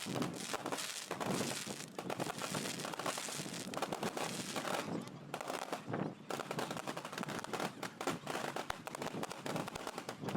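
Fireworks and firecrackers going off, a dense, unbroken crackle of rapid bangs.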